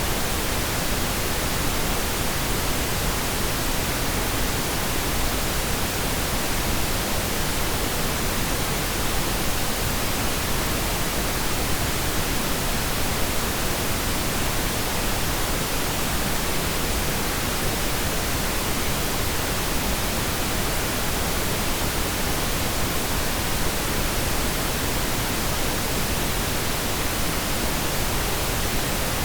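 Steady pink noise: an even, unchanging hiss spread across the whole range, with no separate sounds in it.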